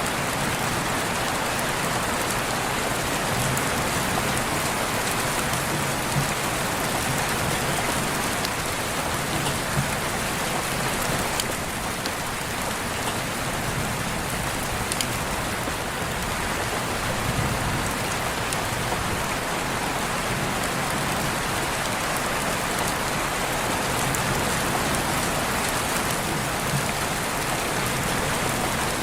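Steady heavy rain falling on surfaces, with scattered faint drop ticks.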